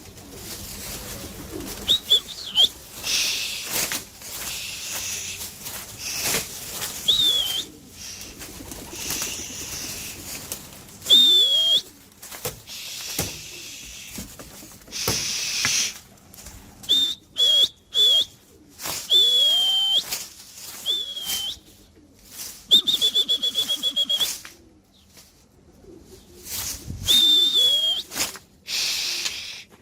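A person whistling short, high, repeated whistles, some held and some wavering, to fly homing pigeons. Between the whistles come bursts of pigeons' flapping wings and some pigeon cooing.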